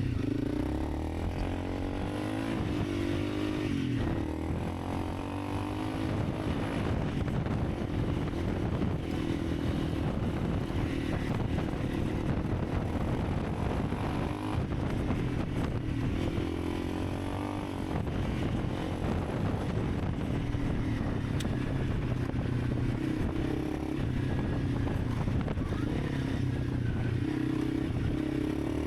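Honda CRF300 Rally's single-cylinder engine running under way, its pitch rising and falling with the throttle over a steady rushing noise.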